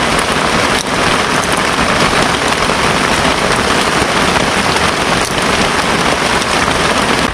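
Heavy rain pouring down in a storm: a loud, steady hiss of rain falling.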